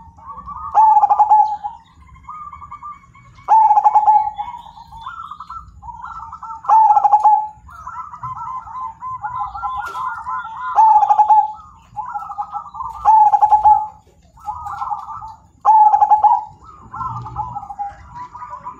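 Zebra dove (perkutut) of the Majapahit type cooing: loud, full phrases repeat about every three seconds, with softer cooing in between.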